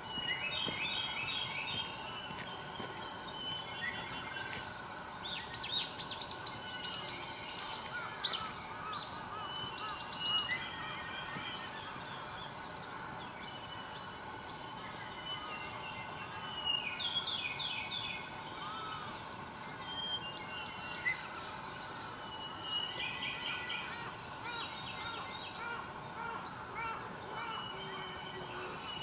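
Several wild birds singing and calling at once, with short chirping phrases repeated and overlapping throughout, over a steady faint background hum.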